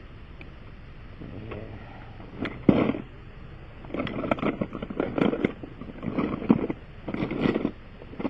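Hand tools being handled and worked against the tire: irregular clinks and scrapes in several short bursts, the first about a third of the way in and most of them in the second half.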